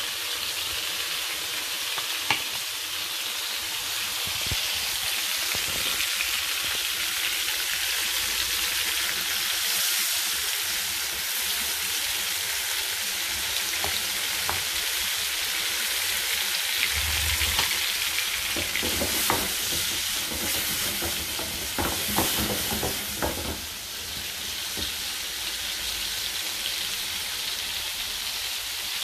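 Prawns sizzling steadily as they fry in oil in a frying pan. A wooden spatula scrapes and knocks against the pan as they are stirred, in a cluster of knocks about two-thirds of the way through.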